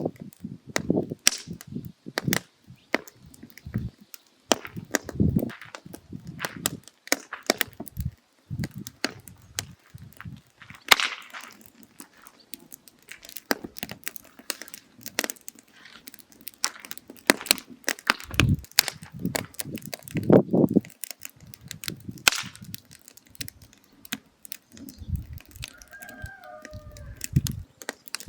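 Firewood burning down to coals, crackling with many irregular sharp pops and a few duller low thumps.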